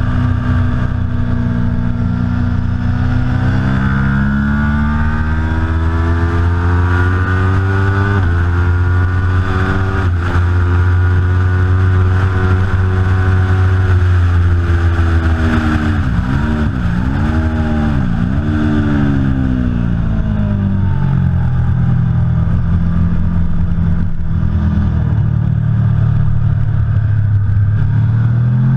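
Aprilia Tuono V4 Factory motorcycle's V4 engine running hard at speed, its pitch climbing and falling as the rider accelerates and changes gear, with sharp steps about 8 and 10 seconds in. Around 16 to 18 seconds in, the pitch dips and rises sharply three times in quick succession, then the engine pulls again toward the end.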